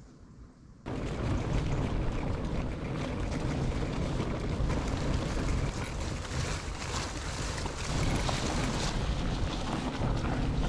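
Wind buffeting the microphone and rolling noise from a fat bike being ridden, cutting in suddenly about a second in after a faint lull.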